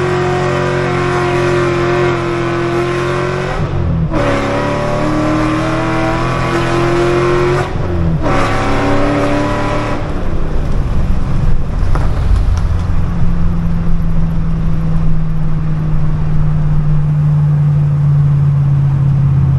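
2008 Shelby GT500's supercharged 5.4-litre V8 pulling under acceleration, with brief breaks about four and eight seconds in as it shifts up. In the second half it settles into a steadier, lower hum with more road noise.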